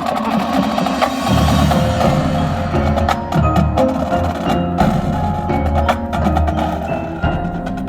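Marching band playing: sustained low pitched notes changing every half second or so, under frequent sharp percussion strikes and ringing mallet notes.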